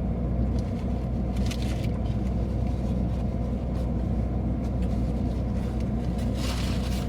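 Steady low rumble of motor vehicles, with a brief rushing hiss about six and a half seconds in.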